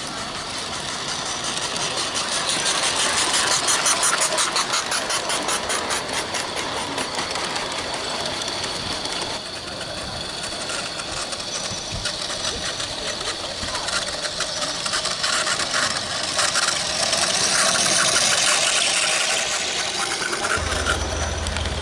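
Small live-steam garden-railway locomotive on 32mm track chuffing rapidly past, the hissing exhaust beats growing louder twice, about four seconds in and again near the end.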